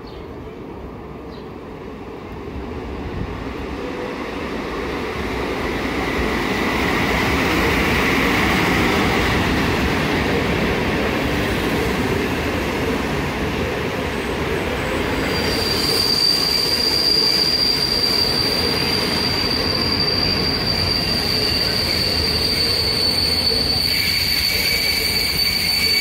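Passenger train moving through a station: the rolling rumble of wheels on rails grows louder over the first several seconds. About halfway in, a steady high-pitched squeal from the wheels or brakes sets in, and a second, lower squeal joins near the end.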